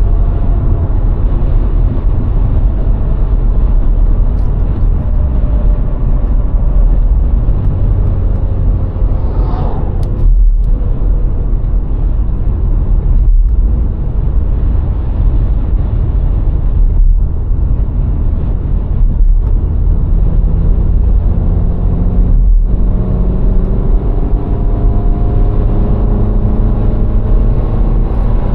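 A VW Golf IV's 1.6-litre four-cylinder petrol engine running under way over a heavy, steady rumble of road noise. The engine note climbs about nine seconds in and then falls away, as at a gear change, and rises again near the end as the car accelerates.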